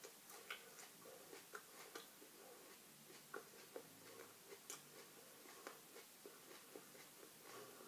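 Near silence with faint, irregular wet mouth clicks of someone chewing a raw chili pepper.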